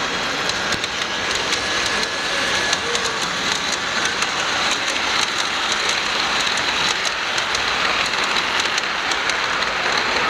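Gauge 1 model train running on the layout's track: a steady rolling hiss with many small clicks scattered through it.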